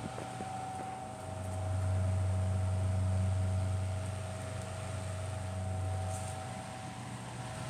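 Electric fan motor running with a steady low hum and a faint higher whine; the hum grows louder about a second in and eases off near six seconds.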